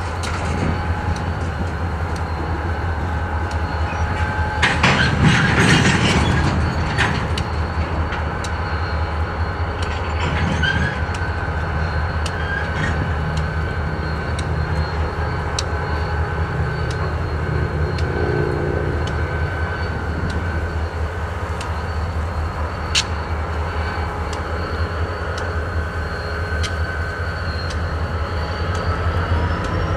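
Freight cars rolling slowly through a rail yard: a steady low rumble with thin, steady squealing wheel tones and scattered clicks from the wheels and couplers. A louder rushing burst comes about five seconds in.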